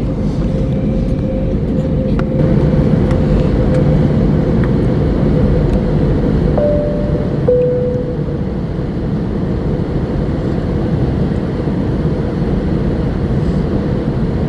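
Steady rumble of an Airbus A321's engines and air conditioning heard from inside the cabin while taxiing, with a faint steady whine. About six and a half seconds in, a two-note cabin chime sounds, high then low.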